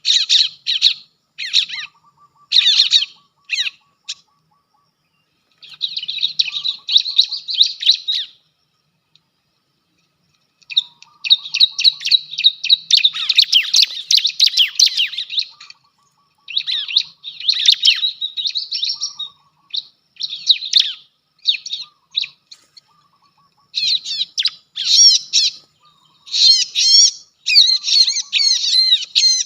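Bar-winged prinias (ciblek) calling in runs of rapid, shrill chirps, with a quiet gap of a couple of seconds about a third of the way in.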